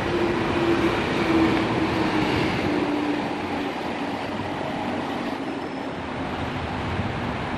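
Dubai Metro train running, a steady rumble with a motor whine that slowly falls in pitch over the first few seconds.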